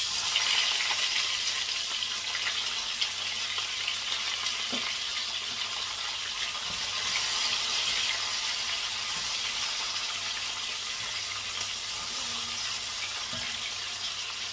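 Chopped garlic and onion dropped into a hot cast-iron pot, sizzling steadily as they fry. The sizzle starts suddenly as they go in, with a few light knocks of a wooden spoon stirring.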